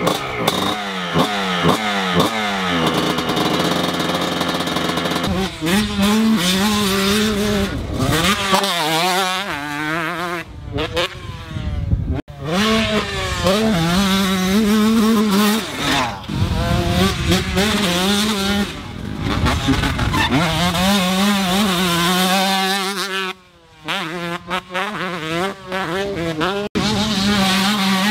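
Motocross dirt bike engines revving hard, pitch climbing and falling again and again as the bikes accelerate, shift and back off. There are a few sudden breaks where the sound cuts off and restarts.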